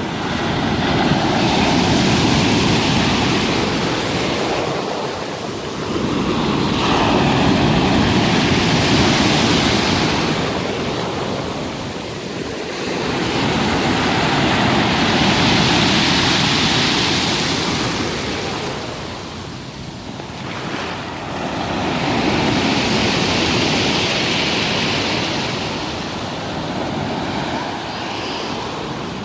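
Black Sea surf: waves breaking on the shore and washing back, rising and falling in four swells about six to seven seconds apart.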